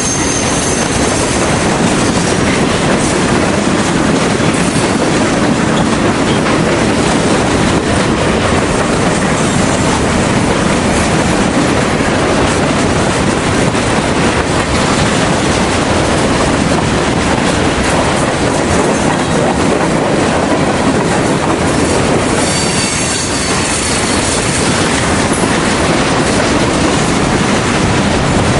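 Freight train of covered hopper cars rolling past close by: a loud, steady rumble of steel wheels on rail with clickety-clack over the joints. Brief high wheel squeals come in right at the start and again about 22 seconds in.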